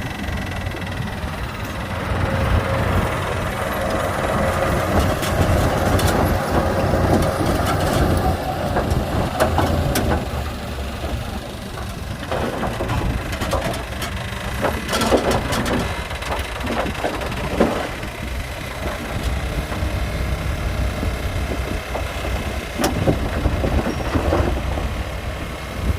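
Heavy diesel earthmoving machinery running with a steady low rumble, and scattered short metallic clanks in the middle and near the end.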